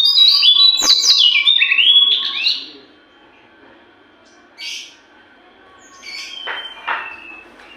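Jongkangan songbird singing a fast, loud run of whistled notes that glide up and down, for about the first three seconds. After that it goes quieter, with two shorter calls later on. A single sharp click sounds about a second in.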